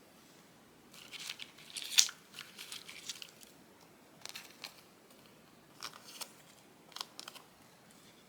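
Scissors snipping through a thin transparent sheet in several short runs of cuts, the sharpest snip about two seconds in.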